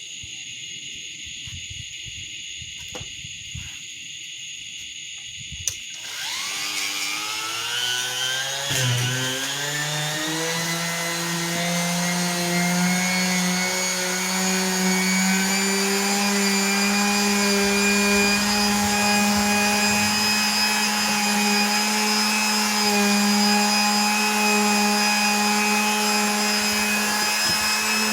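A motor starts about six seconds in. Its pitch rises over several seconds, then it runs on as a steady hum that slowly gets louder.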